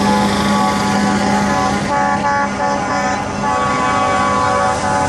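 Several truck air horns blowing at once in long, overlapping blasts, with more horn notes joining about two seconds in, over the running of the passing trucks.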